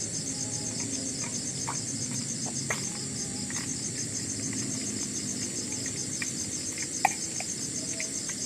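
Forest insects trilling steadily in a high, pulsing chorus, about four pulses a second. A few short sharp clicks stand out, the loudest about seven seconds in.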